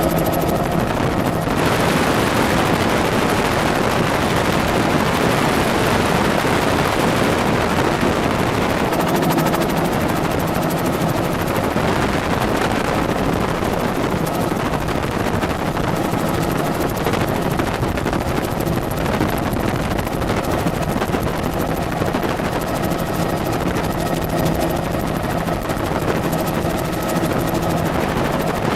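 Helicopter in flight: loud, steady rotor and engine noise with a rapid chop.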